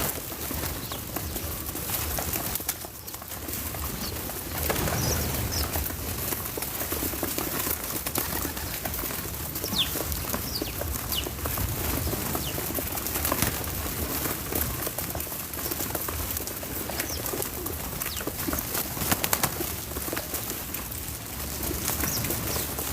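Backyard birds: short high chirps every few seconds over a steady rustling haze, with scattered clicks and taps.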